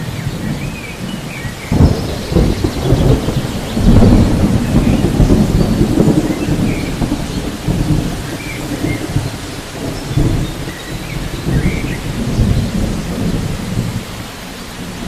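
Thunderstorm ambience: steady rain with rolling thunder, one rumble breaking in sharply about two seconds in and a louder one about four seconds in that rolls on in waves for several seconds.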